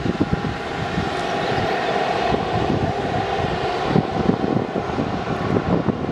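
Boeing 737-300's CFM56-3 jet engines running: a steady whine over a continuous rumble.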